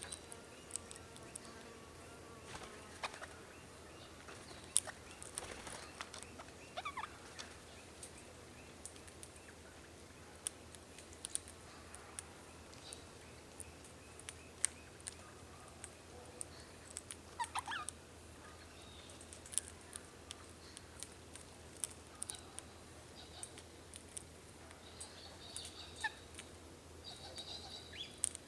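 Wild birds calling now and then, with a couple of short downward-sliding calls and a burst of high chirping near the end, over a low steady hiss broken by scattered sharp ticks.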